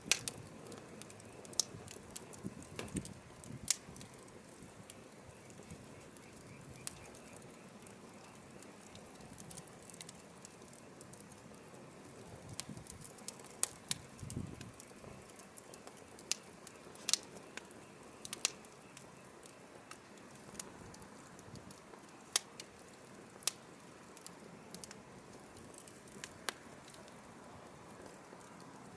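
Firewood burning: irregular sharp crackles and pops, some in quick clusters, over a soft steady hiss.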